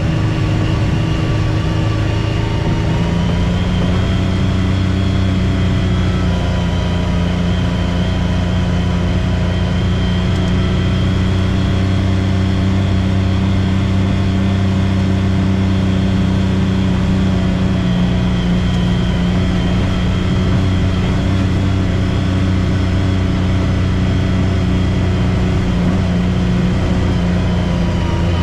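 Off-road vehicle engine running under steady throttle. Its pitch rises about three seconds in, holds steady, and eases off near the end.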